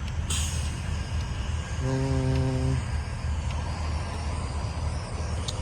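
Steady low rumble of vehicle engines, with a short hiss just after the start and a brief, steady, hum-like tone about two seconds in.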